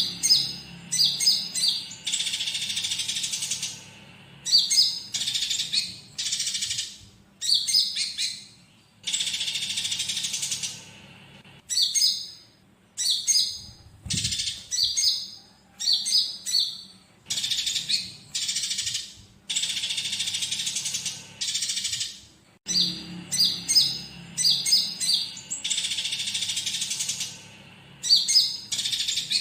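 Looped bird-song recording: a konin's clusters of sharp, quick chirps alternate with stretches of about two seconds of dense, rasping chatter from fighting tree sparrows, repeating over and over.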